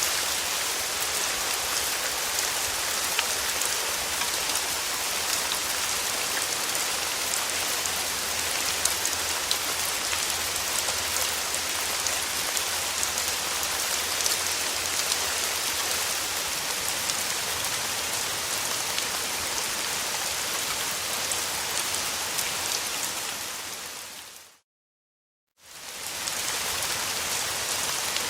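Steady rain falling, a dense hiss with the patter of individual drops. About 23 seconds in it fades out to a second of silence, then fades back in.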